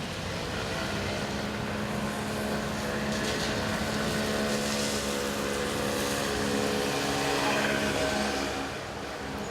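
A vehicle passing on a wet road: a steady engine hum that builds for several seconds and fades near the end with a slight drop in pitch, with a hiss of tyre spray in the middle. Steady rain underneath.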